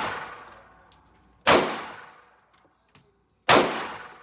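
Two gunshots about two seconds apart, each sharp crack trailing off in a long echo, with the tail of an earlier shot fading at the start.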